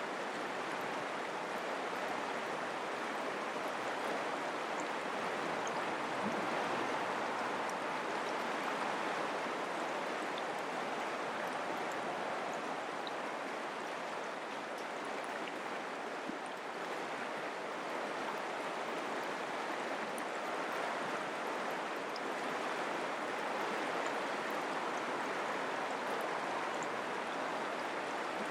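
Mountain creek flowing steadily over rocks, an even rushing and babbling of water.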